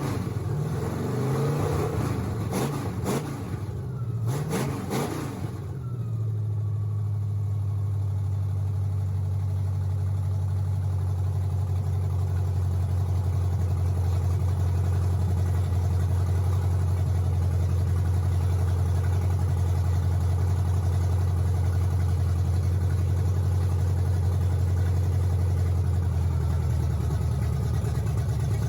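Newly installed 351 Windsor small-block Ford V8 revving up and down a few times, then settling into a steady idle about six seconds in.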